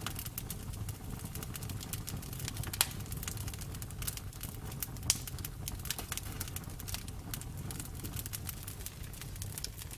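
Bonfire crackling: frequent sharp pops and snaps of burning wood over a low steady rumble of the flames, with two louder pops, one about three seconds in and another about five seconds in.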